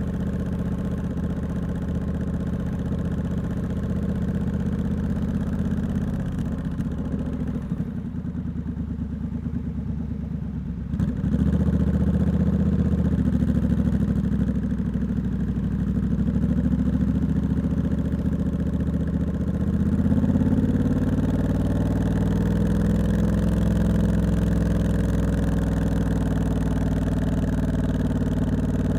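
Triumph Scrambler 1200X's 1200 cc parallel-twin engine running through a loud aftermarket Hitchcox exhaust while riding. The engine eases off for a few seconds, then picks up sharply about 11 seconds in and again about 20 seconds in.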